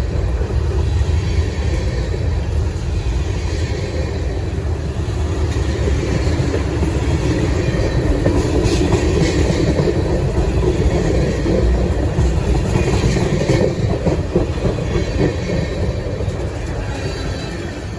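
CSX freight train rolling past: a steady, loud rumble of the cars with wheels clicking over the rail joints, easing a little near the end.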